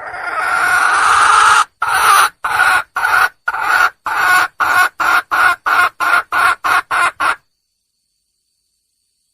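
Junglefowl hen calling for a male: one long drawn-out note, then a run of about a dozen short clucks that come faster and faster and stop about seven seconds in.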